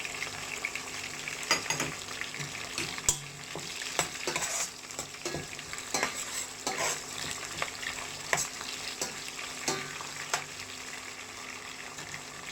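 A spatula stirring and scraping in a pan of hot oil where garlic, green chillies and curry leaves are frying: a steady sizzle broken by irregular scrapes and knocks of the spatula against the pan.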